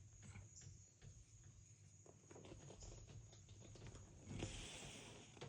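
Near silence: faint room tone with a few small scattered ticks and a soft rustle about four and a half seconds in.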